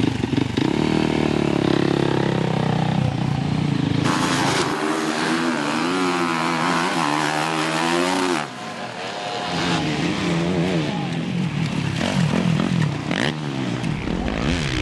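Motocross bike engines racing on track, revving up and down as the riders work the throttle and shift, with the engine note swinging in pitch throughout and a brief dip about eight seconds in.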